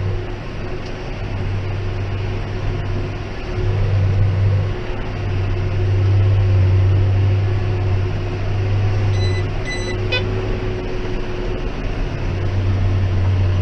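John Deere 6190R tractor running under baling load, heard from inside the cab: a steady low drone that swells and eases. Two short electronic beeps a little past nine seconds in.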